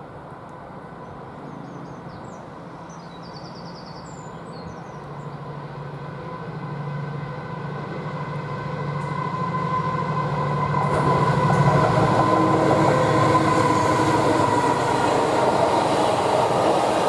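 Freightliner Class 70 diesel locomotive approaching with a container train, its GE PowerHaul V16 engine running with a steady low hum that grows louder. About eleven seconds in, a louder rolling noise of container wagons passing close takes over.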